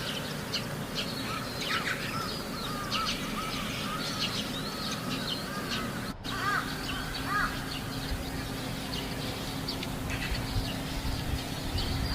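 Crows cawing repeatedly in short series of quick, arched calls, with higher chirps from other birds. The sound cuts out for an instant about halfway through.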